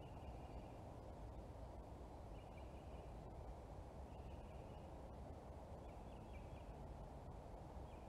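A bird giving a short call five times, about every two seconds, faint over a steady low background hiss.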